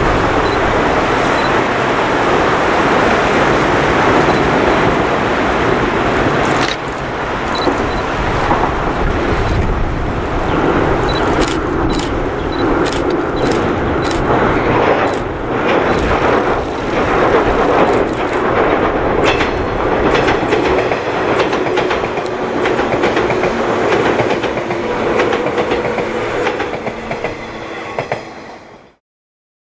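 JR 185 series electric multiple unit running across a girder bridge: a steady rumble, with a quick run of wheel clicks over the rail joints in the middle. The sound cuts off suddenly near the end.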